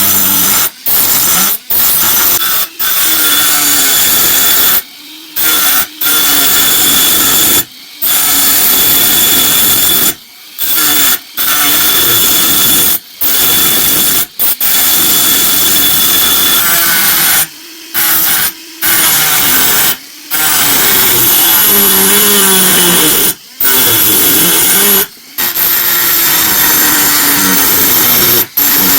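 Small handheld power tool running, its motor noise stopping and starting abruptly a dozen or so times, with a whine whose pitch wavers now and then.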